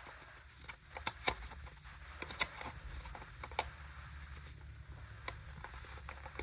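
A sheet of paper being folded and creased by hand: scattered soft crinkles and several sharp creasing clicks, over a low steady hum.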